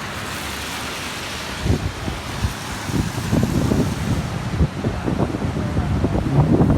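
Wind buffeting the microphone in irregular low thumps over a steady rushing noise, growing busier after about two seconds. A low steady hum comes in near the end.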